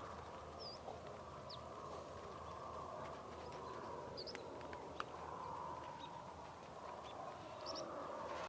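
Faint outdoor ambience with a few short, high bird chirps scattered over a steady background hiss, and an occasional light click.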